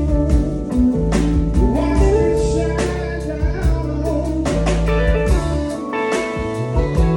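A band playing a blues number: guitar over bass and a steady drum beat, with singing.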